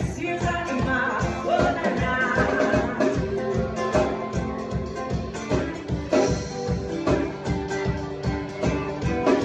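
Live music: guitar over a steady beat, an instrumental passage of a romantic song.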